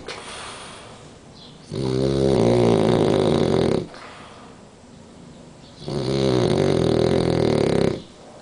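French bulldog snoring: two long, loud snores of about two seconds each, roughly four seconds apart, with quieter breathing between them. The snoring is typical of the breed's short-nosed, narrow airway.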